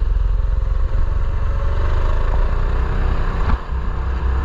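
A mini bike's small engine running under way, its note climbing about two seconds in and briefly easing off near three and a half seconds, with heavy wind rumble on the mounted camera's microphone.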